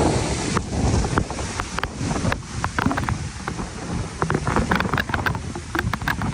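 Heavy rush of a large waterfall and its blowing spray, with strong wind buffeting on the microphone and frequent short crackles.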